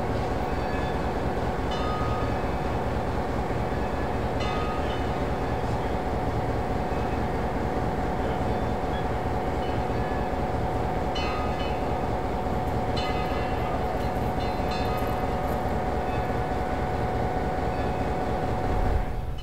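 Slow-moving train, hauled by Baldwin Locomotive Works No. 26 steam locomotive, passing through the rail yard: a steady rumble with a continuous ringing tone and a few short metallic clanks.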